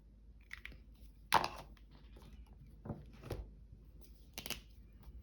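Short, scattered rustles and light taps of shirt fabric being handled on a table, the two loudest about a second in and near the end.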